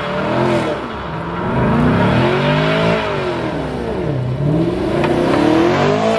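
Ford Mustang engine revving hard during a burnout, its pitch swelling up and falling back about three times over a rushing noise of the spinning car.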